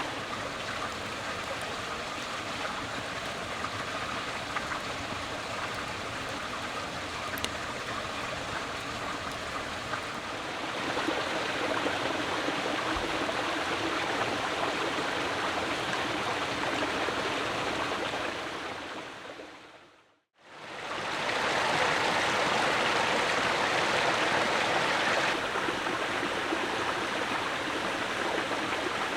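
Steady rush of running water, like a stream. It gets louder about eleven seconds in, fades briefly to silence about twenty seconds in, then comes back louder and drops a little a few seconds later.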